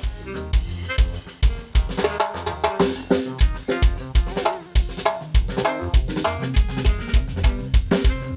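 Instrumental chill-out band music: a drum kit plays a steady groove of kick drum and snare hits over sustained pitched instrument chords.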